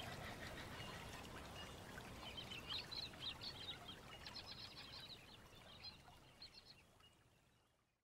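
Wild birds calling in bushland: clusters of quick, high chirping notes over a faint steady background hiss, the whole recording fading out near the end.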